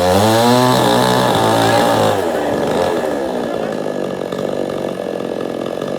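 Chainsaw engine revving up to full throttle and holding there for about two seconds, then dropping back to a lower, steady running speed.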